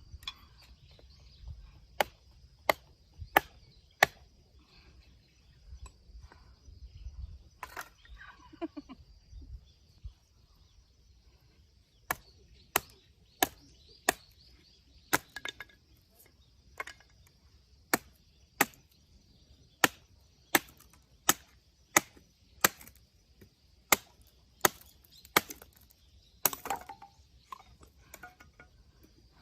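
Firewood being split with a blade: sharp chopping strikes into wood, in runs of quick blows about two-thirds of a second apart, with short pauses between runs.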